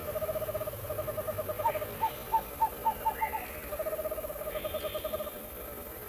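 A bird calling in a low, fast trill, broken by a run of about seven short upward-flicked notes, after which the trill comes back.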